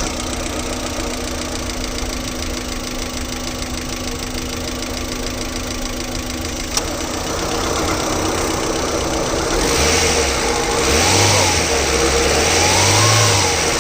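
Maruti Suzuki Zen LXi (2005) four-cylinder petrol engine running steadily at idle, then revved up and let fall back twice near the end.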